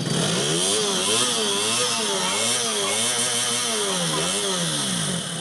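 KTM motorcycle engine being revved in a series of quick throttle blips, its pitch rising and falling again and again, then settling back to a steady idle near the end. This is the bike running on its newly fitted battery.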